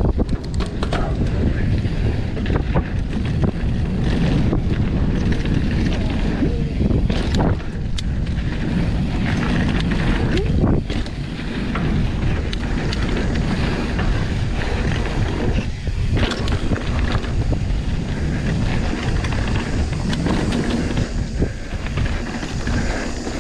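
Wind buffeting the microphone of a camera on a moving mountain bike, a steady rumble, with the tyres running over the dirt trail and sharp clicks and knocks from the bike now and then.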